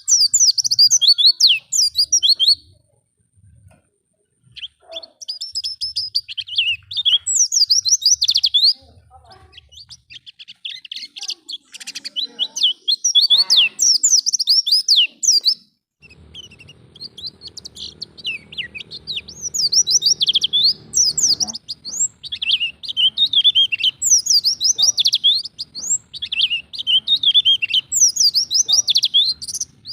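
White-eye (pleci) singing a fast, chattering, warbling song of quick high notes in long phrases with brief pauses: the wild-style 'ngalas' song used as a lure recording to set captive white-eyes singing.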